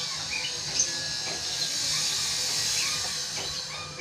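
A steady hiss with a low hum underneath, and a few faint short bird chirps now and then; the hiss cuts off abruptly at the end.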